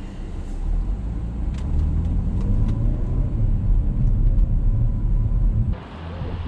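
Car engine running steadily, low-pitched; near the end it cuts abruptly to a wind-like rushing noise.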